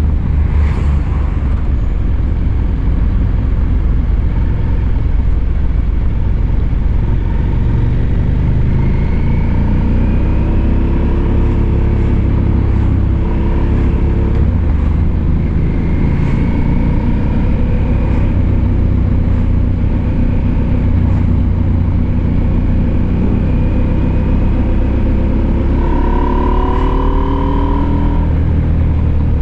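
Husqvarna Norden 901's 889 cc parallel-twin engine running under way, its pitch climbing and dropping several times as the bike accelerates and shifts, with the strongest climb near the end. A steady low rumble lies under it throughout.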